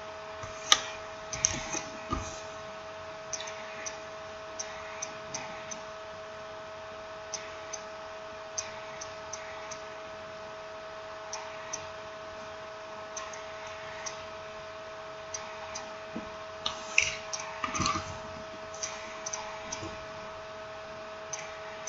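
Scattered small clicks and taps from handling a smartphone's parts and tools, over a steady electrical hum. There is a sharper click about a second in and a cluster of knocks near the end.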